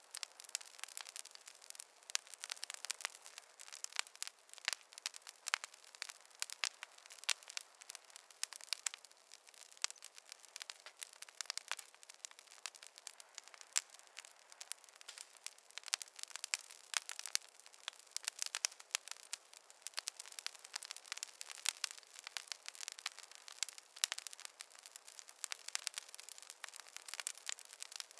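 Wood fire in a fireplace crackling: a dense, irregular stream of sharp pops and snaps from burning logs over a light hiss, with no low rumble.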